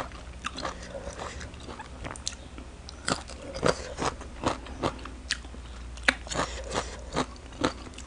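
Close-up crunchy chewing of shredded raw green mango salad. It starts with soft wet mouth clicks, then from about three seconds in come sharp crisp crunches about twice a second.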